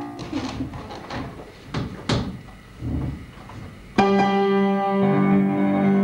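Live instrumental accompaniment between sung lines: a few scattered knocks and soft sounds, then about four seconds in a loud sustained chord that holds.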